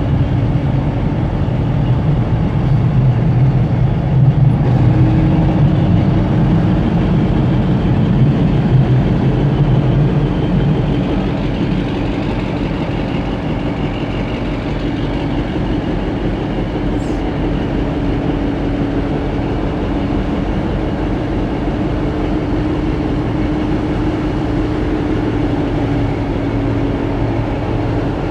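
Boat engine running steadily: a loud, low drone with a faint constant hum, easing off slightly about ten seconds in.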